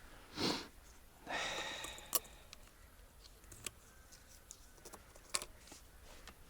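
Two short rustling noises in the first two seconds, then a few scattered sharp clicks and taps, as of someone shifting and handling gear.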